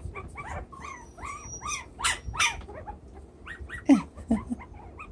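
Chinese Crested Powderpuff puppies, almost four weeks old, squeaking and whimpering in many short, high chirps, with one louder yip about four seconds in that falls sharply in pitch.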